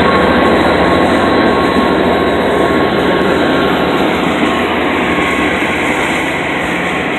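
Freight train of tank cars rolling past close by: a steady, loud rumble and rush of wheels on rail, easing off slightly toward the end.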